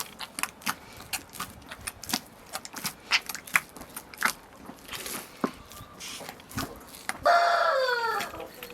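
Irregular sharp clicks and taps, then about seven seconds in a single loud bleat from a farm animal, falling in pitch and lasting about a second.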